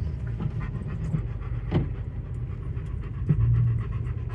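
Chevrolet Tahoe driving along a greasy mud road: a steady low engine and drivetrain rumble with scattered clicks and knocks, the sharpest about one and three-quarter seconds in.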